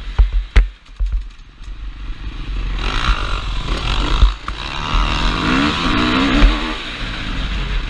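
KTM 350 SX-F's single-cylinder four-stroke engine heard from a helmet camera, with a few sharp knocks and clatter in the first second. The engine is quieter for a moment, then picks up and pulls harder from about three seconds in, its pitch wavering with the throttle.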